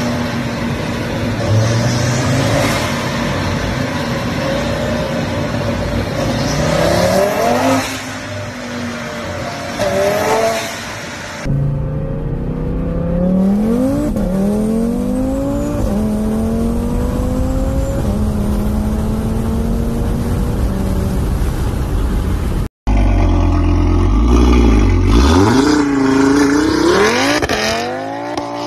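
Audi RS3's turbocharged five-cylinder engine in three clips. It is first held at high revs on a dyno with two sharp revs. Next it accelerates through the gears, the pitch climbing and dropping back at each shift. After a brief cut it revs loudly, the pitch dipping and climbing.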